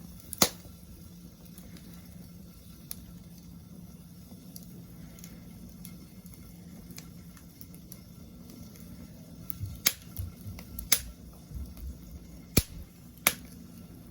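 Wood fire burning in a fire pit, crackling faintly with sharp pops now and then: one loud pop about half a second in, then a run of four loud pops in the last few seconds.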